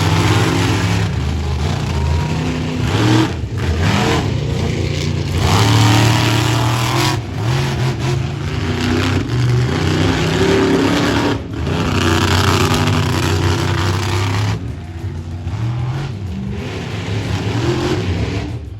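Monster truck engine revving hard and letting off again and again, its pitch rising and falling, with brief throttle lifts every few seconds. It runs a little quieter for the last few seconds.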